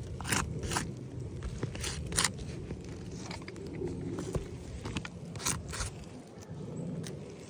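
Footsteps on a roof: shoes scuffing and crunching over the gritty roof surface in irregular sharp scrapes, over a low rumble.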